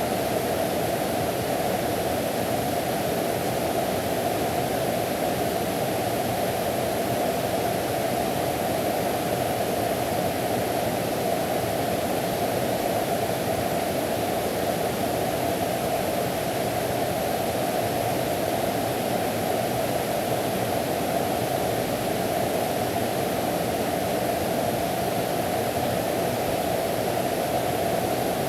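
Mountain valley stream rushing steadily, an even noise of flowing water.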